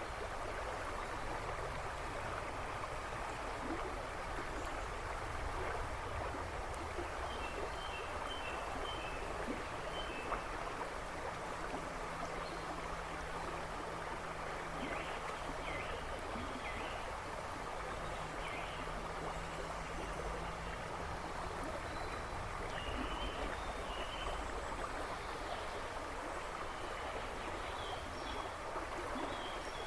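A river babbling and rushing steadily. Small birds chirp faintly behind it in short runs of high notes, now and then.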